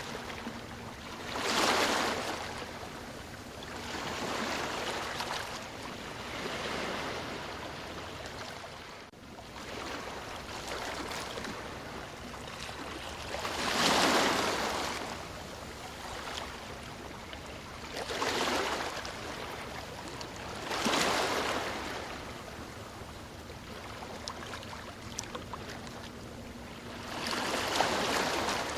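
Ocean surf: a steady wash of water with waves surging and breaking every few seconds, the biggest about two seconds in, around the middle and near the end.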